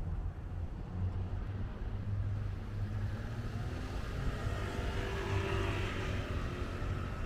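A car driving past, growing louder to its peak about five to six seconds in, over a steady low rumble.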